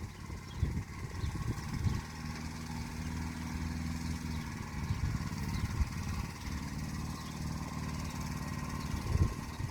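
Motor Sich walk-behind tractor engine running steadily as it works, with a few short low thumps mixed in.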